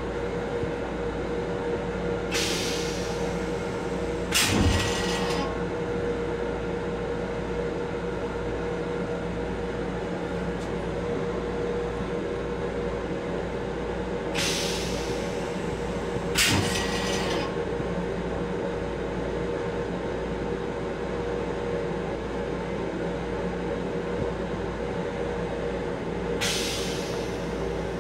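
Steady running hum of a Metro-North M7 electric railcar, heard from inside its restroom, with a constant mid-pitched tone. Over it come five short hisses, in pairs about two seconds apart that repeat about every twelve seconds, the second of each pair starting with a click.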